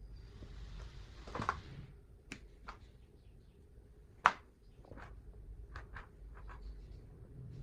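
Workbench handling sounds: a hiss lasting about a second and a half near the start, then a series of light clicks and taps, with one sharp click about four seconds in.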